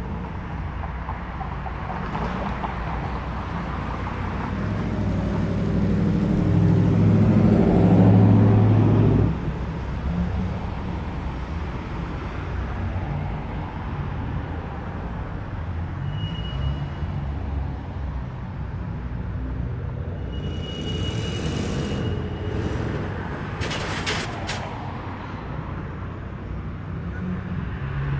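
A car's engine running as it drives by, growing louder to a peak about a third of the way in and then dropping away abruptly, with steady engine and traffic noise the rest of the time. A few sharp clicks come near the end.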